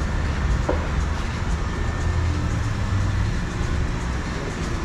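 Steady low rumble of a running motor vehicle, with one short click less than a second in.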